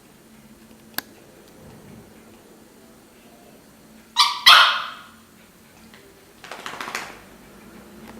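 Jack Russell terrier giving two sharp barks in quick succession about four seconds in, followed a couple of seconds later by a rougher, noisier sound.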